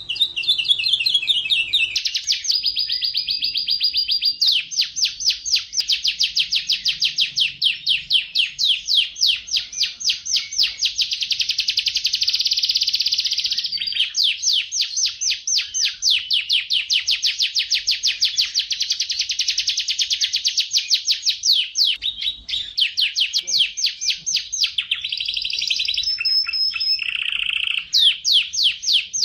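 Domestic canary singing a long, continuous song of fast trills of rapidly repeated notes, with a few short held whistles and a lower note near the end.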